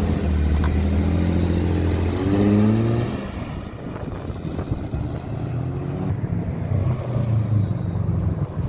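A classic saloon car's engine pulls away and revs up, its note rising about two to three seconds in, then fades as the car drives off. From about six seconds in, another car's engine grows louder as it approaches.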